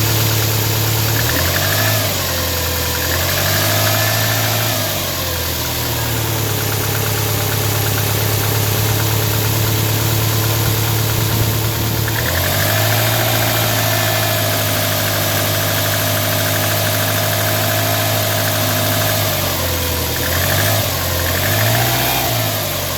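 Subaru Impreza flat-four boxer engine running with a knock, the sign of the engine knocking problem it is recorded for. It idles with brief rev blips twice near the start, is held at raised revs for several seconds from about halfway, and is blipped twice more near the end.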